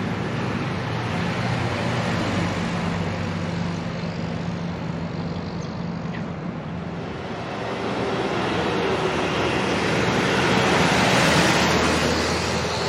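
A motor vehicle's engine running steadily with a low hum under road or wind noise. It grows louder and noisier from about two-thirds of the way through, as the vehicle comes closer or speeds up.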